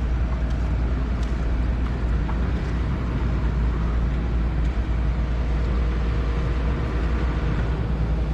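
Diesel engine of a backhoe (excavator) running steadily: a constant low rumble with a faint steady hum above it.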